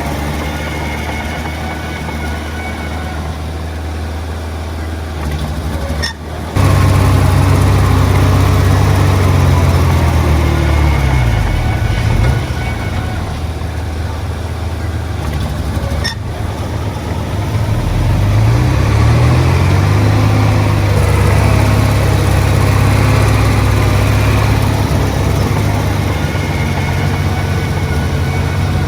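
Heavy diesel earthmoving machinery running steadily with a low drone, its engine speed shifting up and down a couple of times. About six seconds in the sound drops out briefly and comes back louder.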